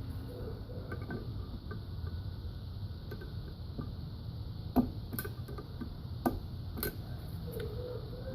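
Small metal tools clicking and tapping as a new valve stem seal is pushed down onto its valve guide with a socket: a few sharp clicks in the second half, the first the loudest, among lighter ticks.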